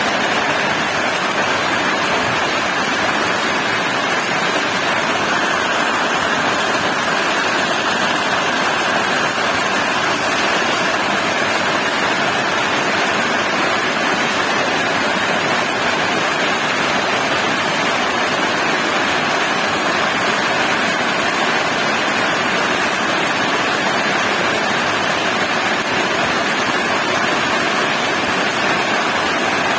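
Heavy rain falling, a dense, steady hiss with no thunder or other distinct sounds.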